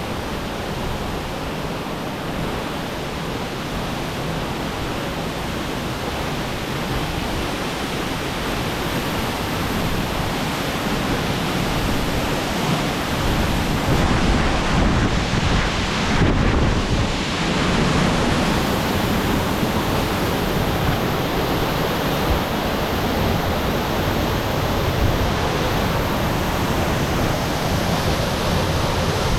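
Waterfall plunging into a pool: a steady rush of falling water that grows louder about halfway through.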